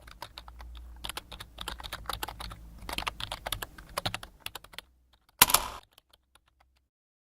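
Quick typing on a computer keyboard, several keystrokes a second, which stops after about five seconds. About half a second later comes a single louder key strike, like hitting Enter.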